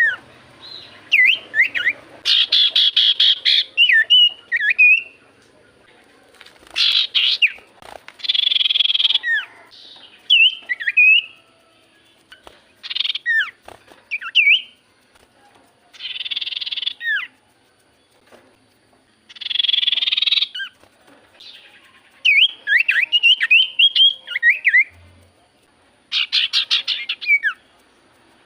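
Common iora (cipoh) singing and calling: phrases every few seconds of harsh, buzzy chattering bursts alternating with quick whistled notes that slide up and down, with short pauses in between.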